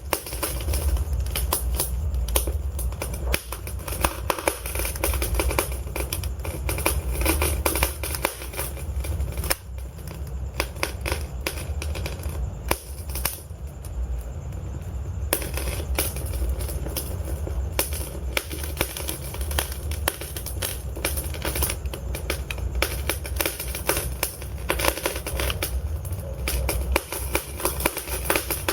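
Wood fire burning in a fireplace: logs crackling and popping in rapid, irregular snaps over a steady low rumble of the flames, with fewer snaps for a few seconds around the middle.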